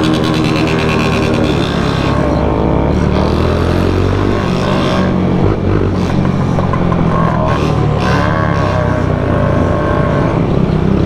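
Motorcycle engines running in a group ride, the revs rising and falling as the bikes move along.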